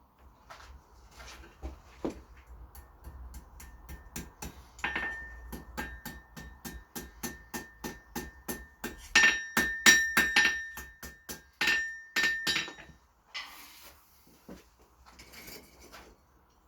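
Blacksmith's hammer striking 6 mm mild steel round bar on an anvil: a long run of quick blows, about three or four a second, each with a clear metallic ring. The blows get louder in the middle stretch, then stop and give way to a few brief scraping sounds near the end.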